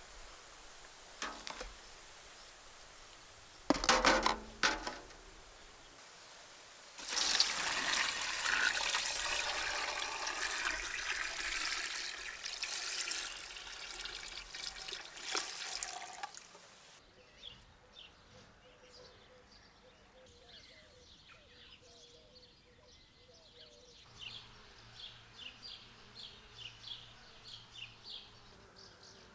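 A few sharp knocks, the loudest about four seconds in, then running water for about ten seconds that stops abruptly. Faint scattered ticks follow near the end.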